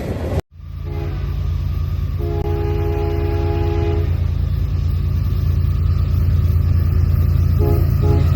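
Locomotive air horn sounding a short note, a long blast of about two seconds, then two quick toots near the end, over the train's steady low rumble.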